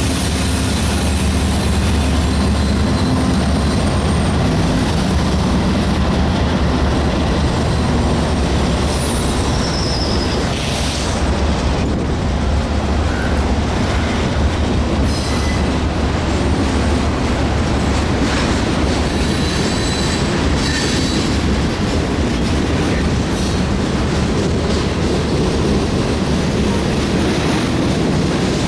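Union Pacific train's cars rolling steadily past at close range, a continuous rumble and rattle of wheels on rail, with a few short high wheel squeals around the middle.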